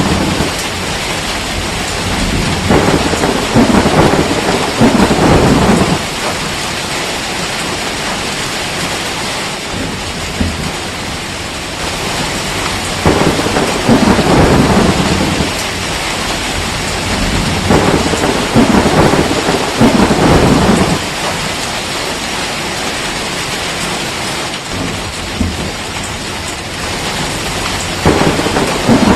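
Steady heavy rain hissing, with thunder rumbling up and dying away about four times, each roll lasting a few seconds.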